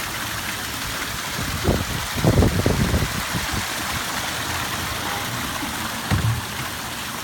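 Water spilling over a rock waterfall into a pond, a steady rushing splash. There are brief low rumbles about two seconds in, between two and three seconds in, and again near the end.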